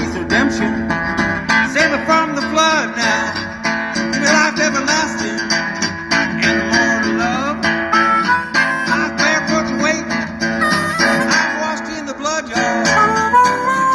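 Live acoustic guitar strumming a blues rhythm with a harmonica playing over it, bending notes and, near the end, holding long notes.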